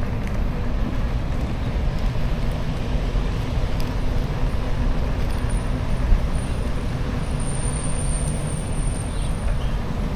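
Steady road traffic noise heard while riding a bicycle, with a heavy low rumble throughout. A faint high squeal comes in about seven seconds in and stops shortly before the end.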